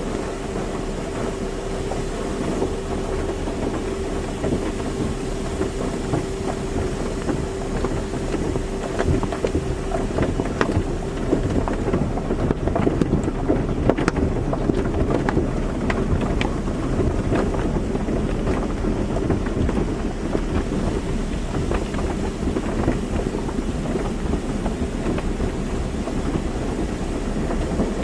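Car wash running: a steady rush of spraying water and machinery, with a held hum that fades out about ten seconds in, and a louder, spattering stretch in the middle.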